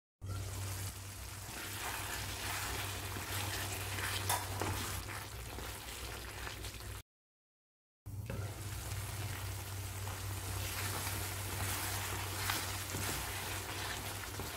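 Chicken pieces in a thick masala gravy sizzling and frying in a pan, stirred with a wooden spatula that clicks and scrapes against the pan now and then. The sound drops out completely for about a second midway.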